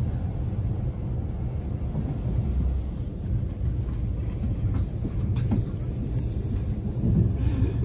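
Steady low rumble of a double-decker electric commuter train running along the track, heard from inside the passenger cabin.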